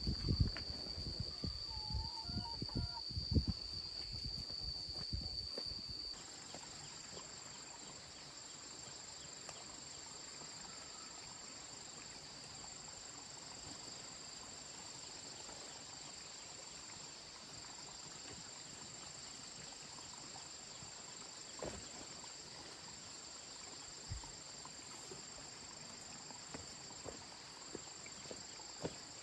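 Insects trilling in one steady high-pitched tone. For the first six seconds a run of dull knocks and thumps goes with it. Then the knocking stops and the trilling jumps to a higher pitch.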